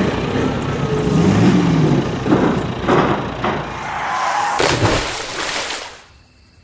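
Truck engine revving, its pitch rising and falling, over a noisy rush, with several sharp knocks; the sound drops away abruptly about six seconds in.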